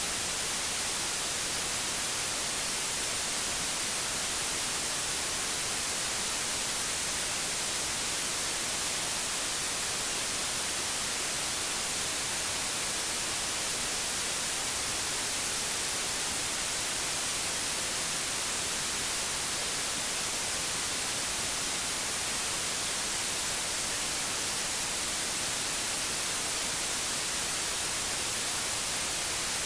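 Steady white noise: an even, unbroken hiss, brightest in the high frequencies, with no change in level.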